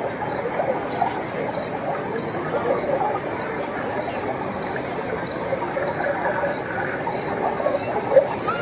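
Busy exhibition-hall hubbub of a crowd with model trains running, and a faint high beep repeating about twice a second.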